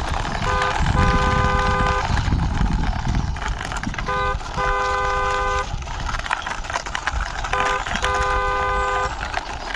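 A truck horn honks three times, each a short toot followed by a longer one, over a steady low rumble of a toy truck's wheels rolling as it is pushed by hand.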